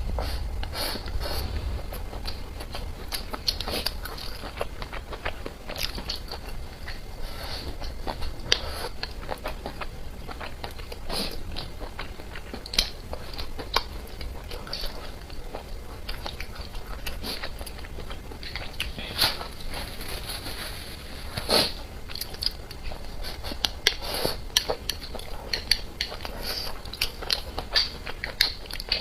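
Close-up eating sounds: a person chewing and biting food, with many irregular sharp clicks and smacks.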